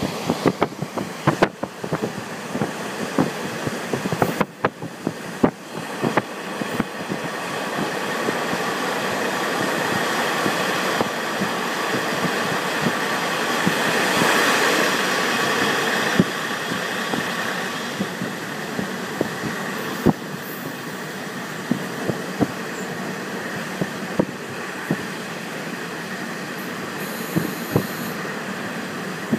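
KiHa 48 diesel railcar running along the line, heard from beside the window: a steady rush of running noise with scattered sharp clicks from the wheels. The sound swells louder about halfway through as the car passes close to a concrete wall, then settles back.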